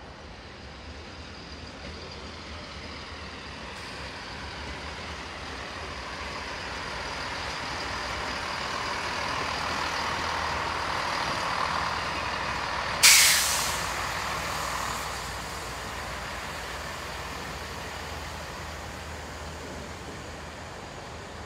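A train running into the platform, its noise slowly growing louder, then a sudden loud hiss of air from its brakes about two-thirds of the way through that dies away within a second or two, after which the train noise eases off.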